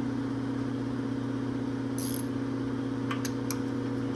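A steady low electrical or machine hum, with a short hiss about two seconds in and a few light clicks near the end.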